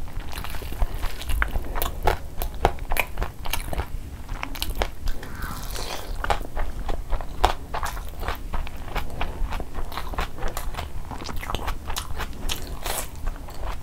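Close-miked wet chewing and mouth sounds from a mouthful of kabsa rice eaten by hand, made of many irregular small clicks and smacks. Crunchy bites come through, the last ones near the end from a slice of raw onion.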